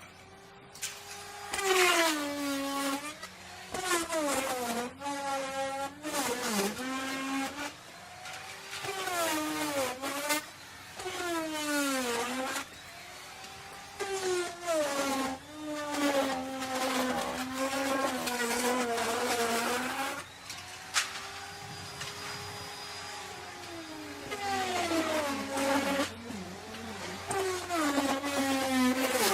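Electric wood router cutting wood. The motor's pitch sags and recovers again and again as it cuts, with a lighter, steadier stretch about two-thirds of the way through.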